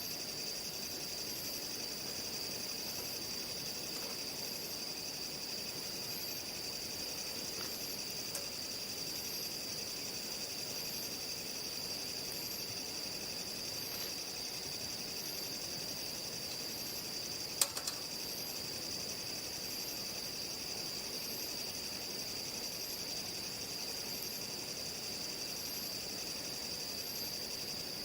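Steady night chorus of crickets and other insects: an unbroken high trill, with a fainter, higher chirp repeating about once a second. A single sharp snap sounds a little past halfway through.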